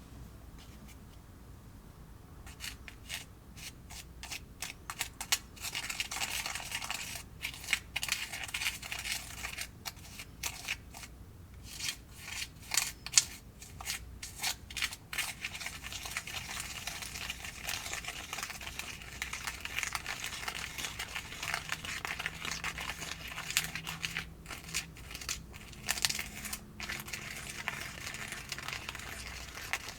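Crinkling and rustling of plastic being handled, a dense run of small clicks and rustles that starts a couple of seconds in and keeps going.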